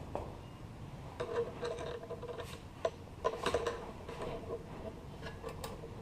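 Hands and tools working a rubber fuel line off a motorcycle carburetor fitting: scattered small clicks and taps, rubbing, and short intermittent squeaky tones, with the sharpest clicks around the middle.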